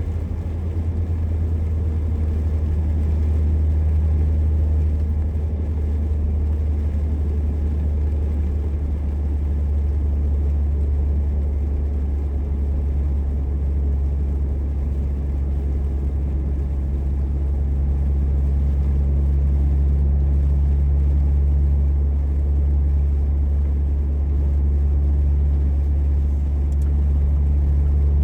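Steady low rumble of a car driving, engine and road noise heard from inside the cabin, with a faint steady hum that comes in about halfway through.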